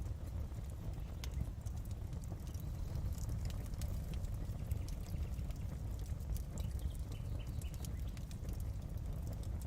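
Fireplace fire crackling: irregular small pops and snaps over a steady low rumble.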